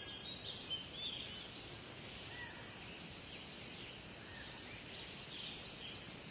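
Birds chirping and calling over a steady background hiss of outdoor ambience. The calls come thickest in the first second and then scatter more sparsely.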